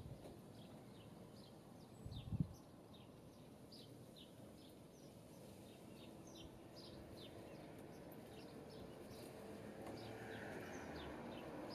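Faint bird chirping: short, high chirps repeating irregularly, about two or three a second. A single low thump sounds about two seconds in.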